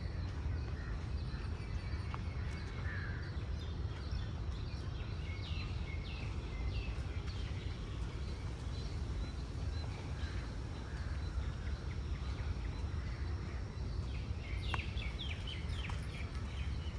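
Outdoor park ambience: birds calling in short high chirps throughout, with a burst of calls near the end, over a steady low rumble.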